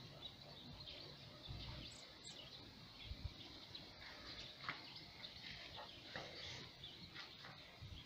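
Faint outdoor ambience with small birds chirping briefly now and then, over a low rumble on the phone microphone.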